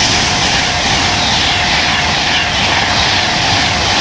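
Virgin Trains Class 390 Pendolino electric train passing through at speed: a loud, steady rush of wheels and air with a faint steady whine under it.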